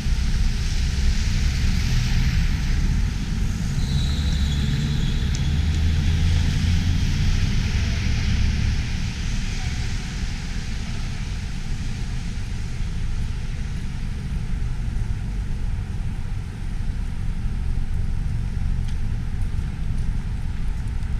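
Road traffic passing, with the sound of vehicles swelling and fading over the first half, under a steady low rumble of wind buffeting the microphone.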